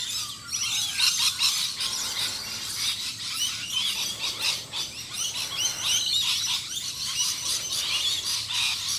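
Many songbirds chirping and calling at once in a dense, overlapping chorus of quick, high chirps and trills.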